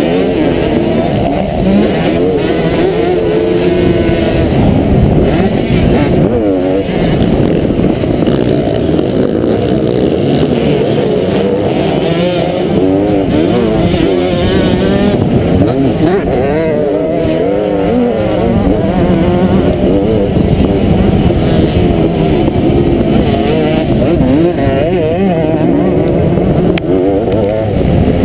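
Kawasaki KX500 two-stroke single-cylinder motocross engine running hard, its pitch rising and falling over and over as the throttle is worked around the track.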